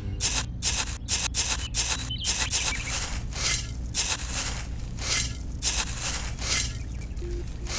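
Repeated rough scraping strokes, roughly two a second and uneven, over a low steady hum.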